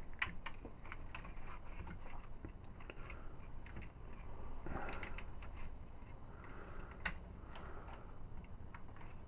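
Scattered light clicks and taps of small toy figure parts being handled and fitted together, the sharpest click about seven seconds in.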